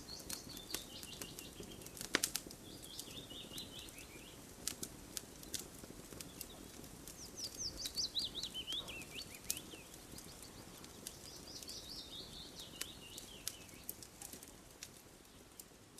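Campfire crackling, with sharp irregular pops over a low hiss. A bird sings a quick series of chirps that falls in pitch, about every four seconds.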